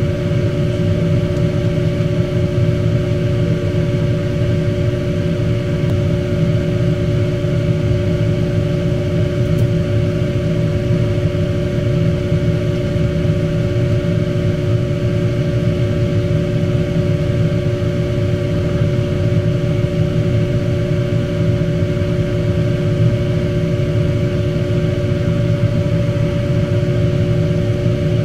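Steady machine hum, like a fan or motor running, with two constant tones over a low rumble and no change in speed.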